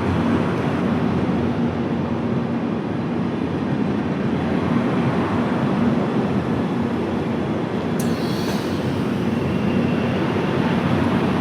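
A train running along the track: a steady rumble with a faint hum underneath, and a brief high-pitched hiss about eight seconds in.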